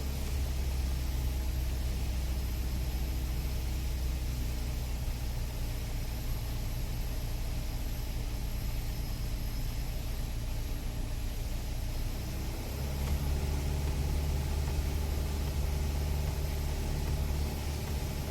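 Piper Archer II's four-cylinder Lycoming engine and propeller droning steadily, heard from inside the cockpit. About two-thirds of the way through, the engine note steps up in pitch and grows a little louder as power is increased.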